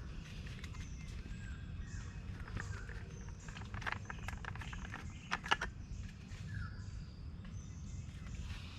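Outdoor ambience: a bird repeating a short falling chirp every few seconds over a steady low rumble, with a cluster of sharp clicks and cracks in the middle, the loudest about five and a half seconds in.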